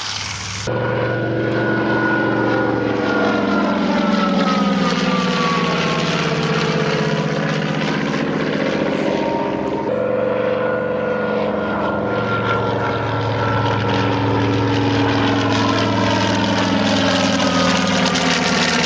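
Piston-engined propeller aircraft flying past, its engine note falling in pitch as it goes by. About halfway through the note jumps back up and falls again as a second pass goes by.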